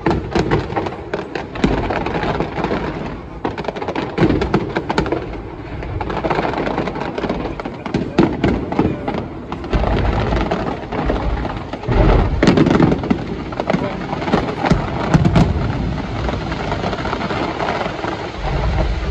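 Fireworks display: a rapid series of exploding shells, bangs mixed with crackling, with heavier booms about two-thirds of the way through.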